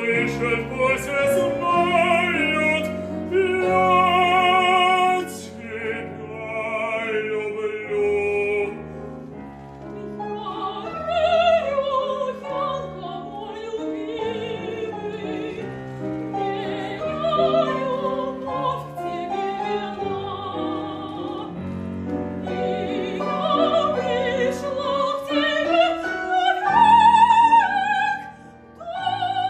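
Operetta aria: a solo voice singing with wide vibrato over piano accompaniment, with a dip in loudness just before the end.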